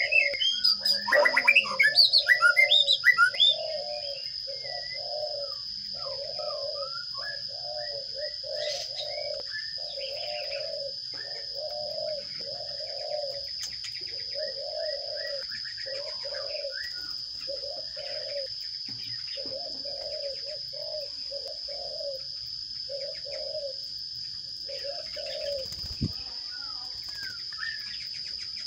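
Loud burst of rapid, high chirping in the first few seconds, typical of sparrow chicks begging as a parent feeds them at the nest box. Throughout, a low call repeats about once a second, with scattered higher chirps and a steady high-pitched tone behind.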